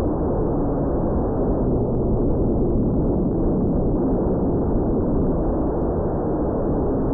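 Gusty wind buffeting the microphone in a steady low rumble, with a faint steady hum beneath it.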